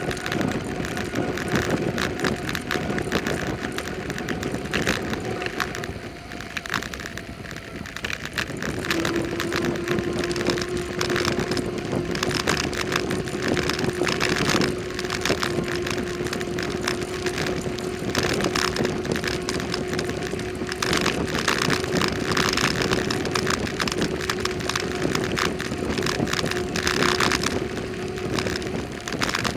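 Wind buffeting the microphone and road noise while riding a bicycle, with a steady hum from about nine seconds in.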